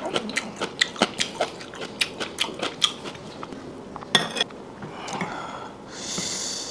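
Close-miked eating sounds: a quick run of sharp clicks and smacks for the first three seconds, a single louder clatter about four seconds in, and a short hissing rustle near the end.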